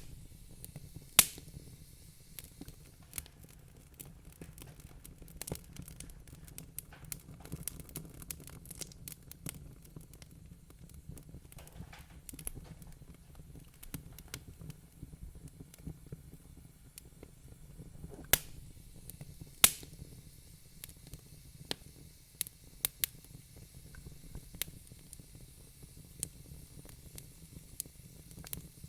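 Wood fire crackling, with a steady scatter of small clicks and a few sharp, louder pops: one a little over a second in and two more about two-thirds of the way through, over a low, steady rumble.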